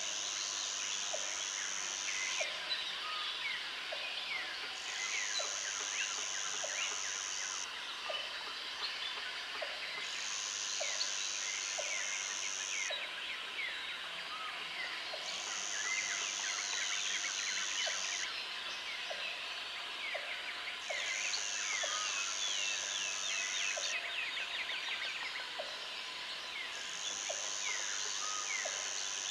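Jungle ambience of birds and insects: a high insect buzz switches on for two to three seconds about every five seconds over a steady insect drone. A low click repeats roughly once a second, and many birds chirp and twitter throughout.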